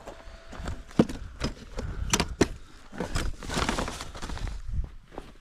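Camping gear being handled and packed: a run of irregular knocks, clicks and clatter, with a short rustle about halfway through.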